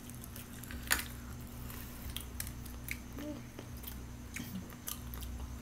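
People biting into and chewing crispy fried chicken: scattered short crunches and mouth clicks, the sharpest about a second in.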